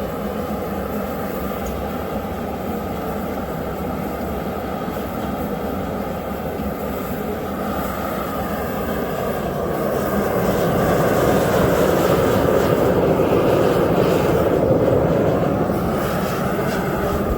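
Knife-making forge running with a steady rushing noise while steel heats in it, growing louder about ten seconds in.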